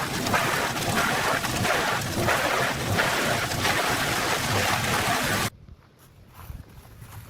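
Loud, steady rushing and grinding noise of a wood chipper or stump grinder shredding wood, which cuts off abruptly about five and a half seconds in.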